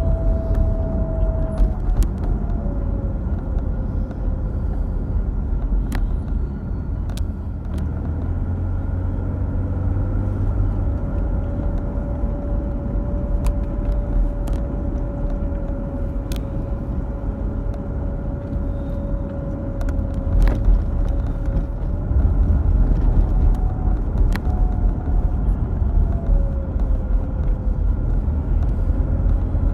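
Mercedes-Benz W210 on the move: a low drone with a thin whistle on top whose pitch slowly falls and rises again as it goes, plus a few sharp clicks. It is the unexplained hum and whistle the owners are trying to trace, which work on the air conditioning did not cure.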